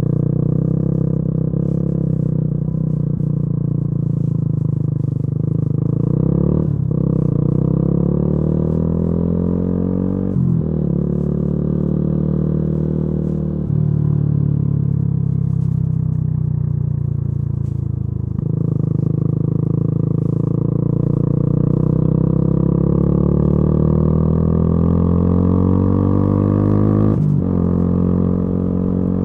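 Yamaha YZF-R125's 125 cc single-cylinder four-stroke engine through a modified exhaust while riding. The engine note climbs and falls with the throttle, broken by short gear changes about five times.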